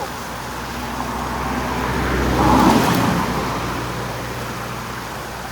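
A motor vehicle passing by with a low engine hum, growing louder to a peak about halfway through and then fading away.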